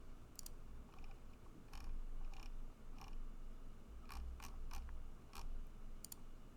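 Scattered clicks from a computer mouse and keyboard, about ten short clicks spread over several seconds, some in quick pairs, over a faint low rumble.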